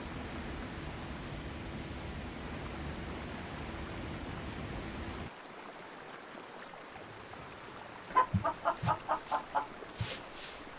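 A steady rushing noise cuts off about five seconds in. Near the end a chicken gives a quick run of about seven clucks.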